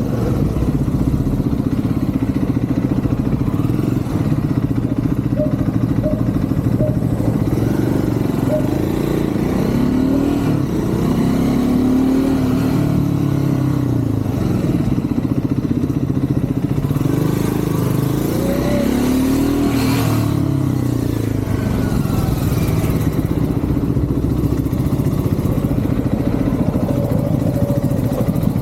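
Triumph Scrambler 400 X's single-cylinder engine running while riding in traffic, its revs rising and falling several times, around ten seconds in and again near twenty seconds.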